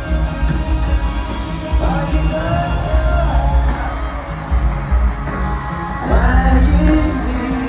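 Live concert music heard from the arena seats: a male vocal sings a Mandopop ballad over a heavy bass beat through the arena PA, with some yells from the crowd.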